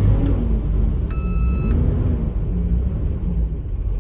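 Carbureted petrol straight-six of a Toyota Land Cruiser 60 at a steady, rumbling fast idle with the choke pulled, warming up just after a cold start, heard from inside the cabin. A short electronic beep sounds about a second in.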